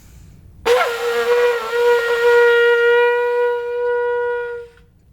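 A shofar (ram's horn) blown in one long held note that starts abruptly, wavers in pitch for a moment near the start, then holds steady for about four seconds before fading out.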